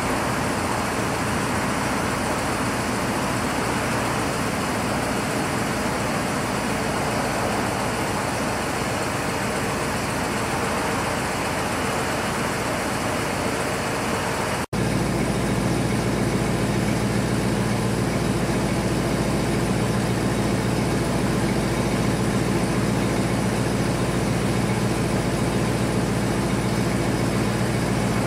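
A 1969 Ford Thunderbird's 429 big-block V8 running steadily: an even rushing noise for the first half, then, after a sudden cut about halfway, a steadier idle with a low hum.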